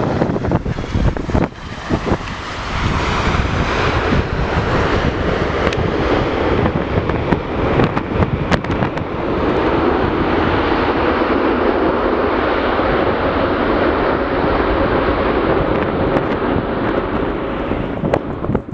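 Jet airliner engine noise: a loud, steady rush that fills out a couple of seconds in and again about halfway, with a faint held tone in the second half. Wind buffets the microphone throughout.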